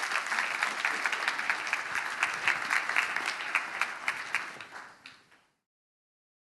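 Audience applauding, a dense patter of many hands clapping that fades and then cuts off abruptly about five and a half seconds in.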